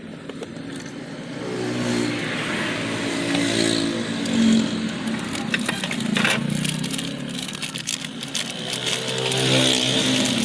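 An engine running, its pitch wavering and swelling a little, with scattered clicks and scrapes over it.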